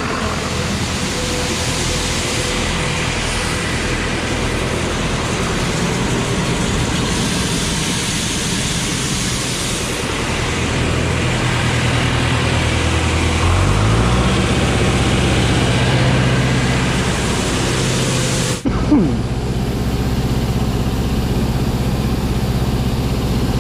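Farm tractor's diesel engine running at speed over a steady rush of grain being unloaded into an auger. The engine revs up about thirteen seconds in, and there is a brief sharp click about three-quarters of the way through.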